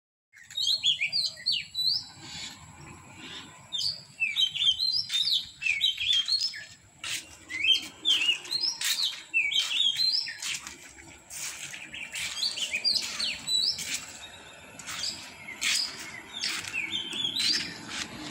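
Small birds chirping: clusters of short, quick, falling notes, repeated again and again.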